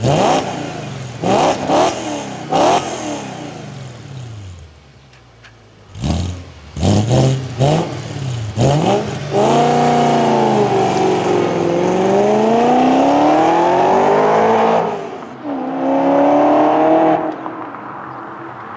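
Audi S4's 4.2-litre V8 breathing through long-tube headers and a non-resonated Milltek exhaust, revved in quick throttle blips. It then accelerates hard for several seconds with the pitch climbing, changes gear with a brief dip, pulls again and fades away.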